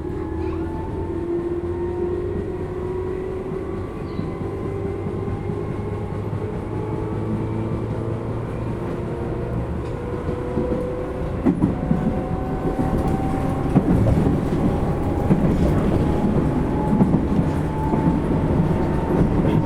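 Tobu 10000-series electric train heard from inside a motor car: the traction motors whine, their tones rising slowly as the train gathers speed. From about halfway the wheel rumble and the knocks of rail joints grow louder as it runs on at speed.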